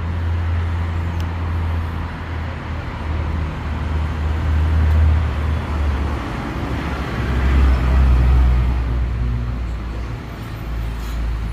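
Road traffic: motor vehicles running past with a deep low rumble, swelling about five and again about eight seconds in.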